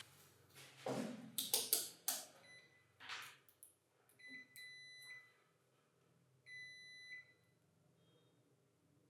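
Electronic tester beeping on a motor stator's windings, in short tones at a steady pitch, about twice, after a few handling knocks and clicks. A continuity beep like this signals a closed circuit through the winding.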